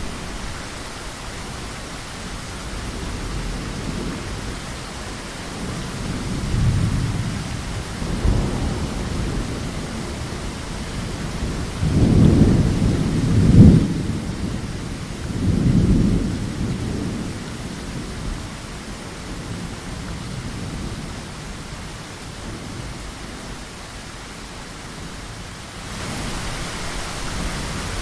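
Heavy rain falling steadily with rolling thunder: low rumbles swell about a quarter of the way in, and the loudest peals come just before the middle, then fade back to rain alone.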